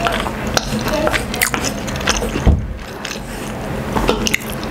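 Close-miked chewing of a mouthful of sardines and rice, with short clicks and scrapes of a metal spoon and fork against a wooden board and one louder knock about halfway through.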